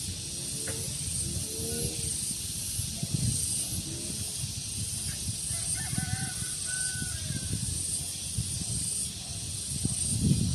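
Outdoor daytime ambience: wind buffeting the microphone under a high, steady hiss that swells and fades over and over. A few short, faint bird calls come in around the middle.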